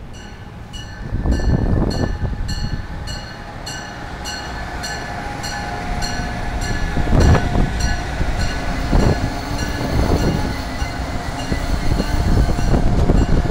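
Amtrak Acela Express high-speed electric train passing close by, its running noise building as it arrives, with a few louder low surges. A bell rings about twice a second.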